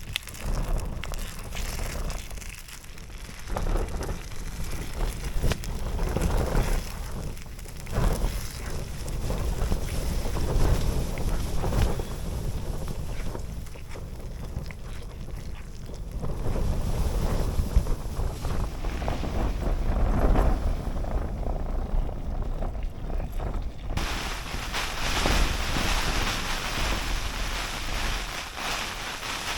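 Snowstorm wind buffeting the microphone in irregular gusts, a low rumble that swells and fades. About 24 s in the sound changes abruptly to a steadier, hissier rush of storm wind.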